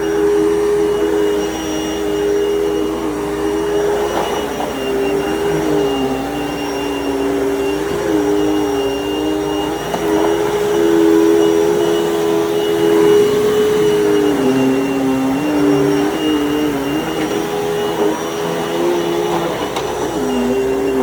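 Dirt Devil Total Vision UD70220 vacuum cleaner running on a carpet: a steady motor hum with an airflow hiss, and a second, lower tone that keeps wavering up and down as the load changes.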